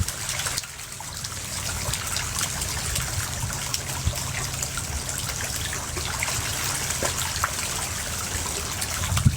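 Steady trickling water, with scattered small clicks and ticks over it.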